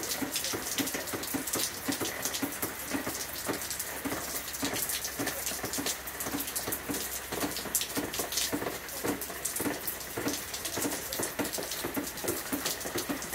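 Rain falling steadily, a dense irregular patter of drops hitting the ground and nearby surfaces.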